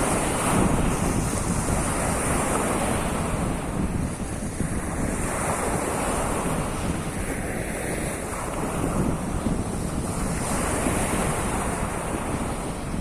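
Sea of Azov waves washing onto the shore, a steady wash that swells every few seconds, with wind buffeting the microphone.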